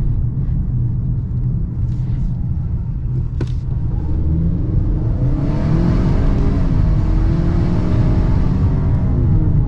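Ford Maverick's 2.0-litre EcoBoost turbocharged four-cylinder engine pulling the truck along over a steady low rumble. It climbs in pitch from about four seconds in as the truck accelerates, with a rush of noise on top until near the end.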